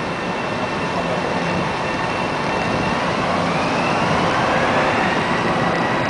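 LIRR M7 electric multiple-unit train running past below: a steady rumble from the cars, with a whine that rises slowly in pitch from about halfway through.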